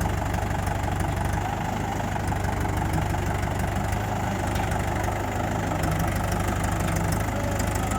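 Tractor engine running steadily with a fast, even low-pitched chug.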